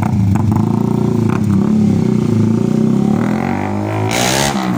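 Honda RS 150 underbone's single-cylinder engine running through a Creed GP Warrior open exhaust, holding a steady speed for about three seconds, then revved up with its pitch rising near the end.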